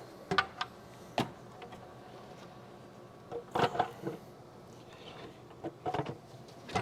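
Scattered sharp clicks and clatters of tools and engine parts being handled during hand work on an engine: a few in the first second or so, a tight cluster around the middle, and more near the end.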